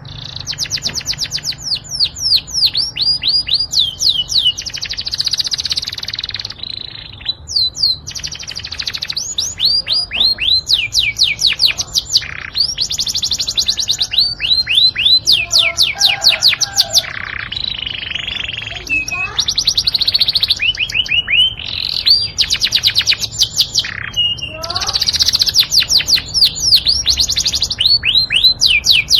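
Yorkshire canary singing a long, almost unbroken song of rapid trills and rolls, strung together from quick rising and falling whistles in phrases of a few seconds.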